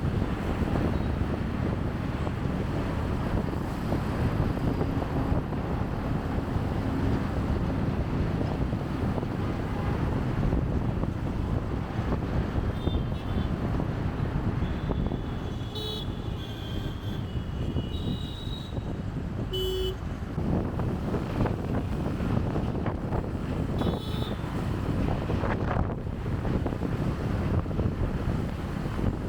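Steady wind rumble on the microphone and low road and engine noise from a motorbike riding in city traffic. In the second half, several short horn toots from other vehicles sound, clustered between about halfway and two-thirds through.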